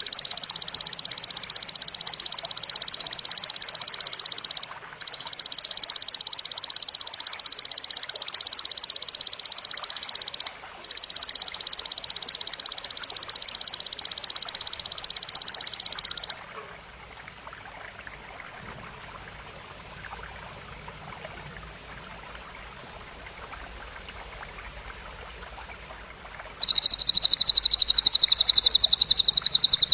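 A belalang (grasshopper) stridulating in a dense, continuous high buzz, in three long runs broken by two short gaps, stopping about halfway through. After a stretch of faint background hiss, a loud, rapid, high-pitched trill starts near the end.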